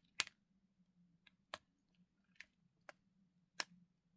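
About six light, sharp clicks and taps spaced irregularly, the loudest just after the start and near the end, from small craft pieces being handled, over a faint steady hum.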